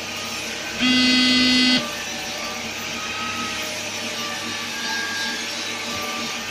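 A loud buzzing tone, like a horn or buzzer, sounds once for about a second, about a second in, over a steady whirring machine noise.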